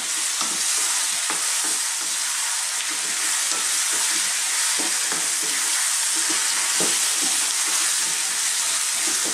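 Potatoes and onions sizzling steadily in hot oil in a non-stick pan. A wooden spatula stirs them, with frequent short scrapes and knocks against the pan.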